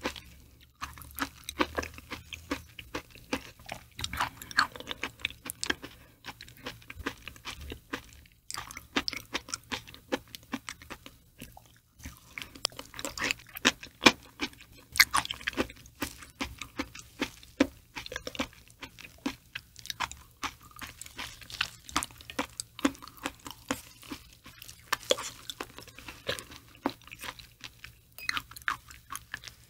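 Close-miked mouth sounds of someone chewing raw liver: a dense, irregular run of wet smacking clicks, with two brief pauses partway through.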